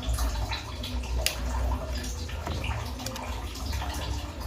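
Pan juices dripping as they are spooned over chicken in a baking pan, with scattered light clicks from the utensil.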